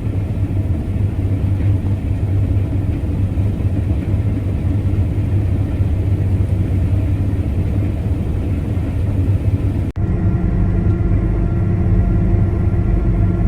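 Combine harvester running steadily at low ground speed while cutting wheat. About ten seconds in, the sound cuts abruptly to a steadier engine drone with a clearer pitch.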